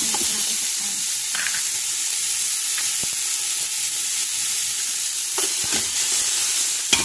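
Garlic sizzling in hot oil in a cooking pot, a steady frying hiss. A few light knocks of a stirring utensil against the pot.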